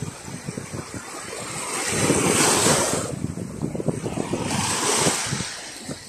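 Small Black Sea waves washing onto the shore, the wash swelling loud about two seconds in and again around five seconds, with wind buffeting the microphone.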